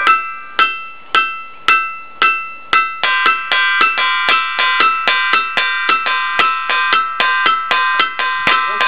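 Ringing 'gong stone' (lithophone rock) struck repeatedly, each blow giving a clear, bell-like ring that dies away. The strikes come about two a second for the first three seconds, then quicken to about three or four a second with a fuller ring.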